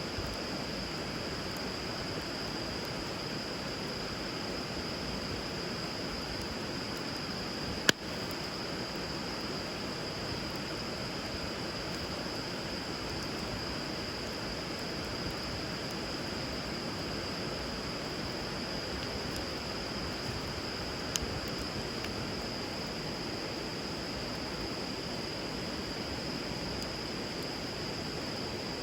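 Steady rush of river water with a wood fire burning on it, a steady high-pitched whine over the top. The fire pops sharply once about eight seconds in, and again more softly near twenty-one seconds.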